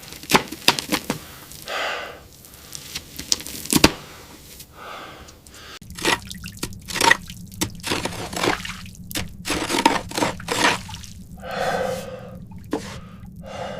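Irregular water drips and small knocks, with a person's heavy, gasping breaths now and then.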